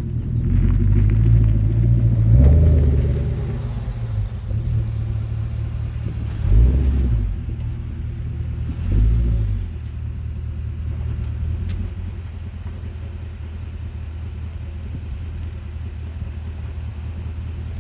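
Car exhaust through a Flowmaster 50 muffler, a deep low rumble. It swells three times in the first half, then settles into a steady drone.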